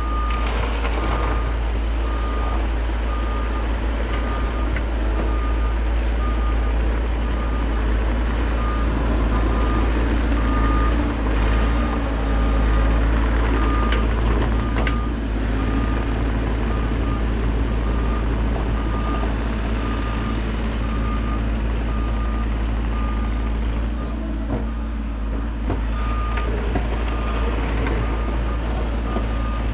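Bobcat E50 mini excavator running, its diesel engine giving a steady low rumble while the travel alarm beeps at a steady even pace as the machine tracks along.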